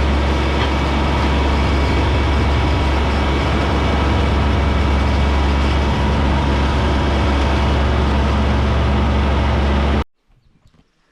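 Kubota B2301 compact tractor's three-cylinder diesel engine running steadily at constant speed, heard close, cutting off abruptly about ten seconds in.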